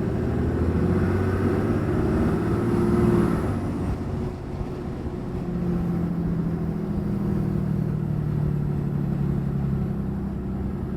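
2022 Ram 2500's 6.7 Cummins turbo-diesel running on its stock air intake, heard from the cab with the windows down. The engine pulls for the first few seconds, eases off about four seconds in, then settles to a steady low drone.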